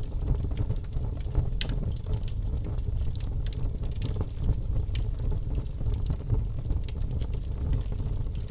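Wood fire burning in a fireplace: a steady low rumble of the flames with irregular sharp crackles and pops from the burning logs, the loudest about one and a half seconds and four seconds in.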